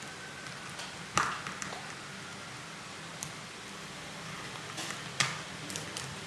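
An African grey parrot handling a plastic toy plant: a scatter of sharp clicks and taps, the two loudest about a second in and near the end, over a steady low hum.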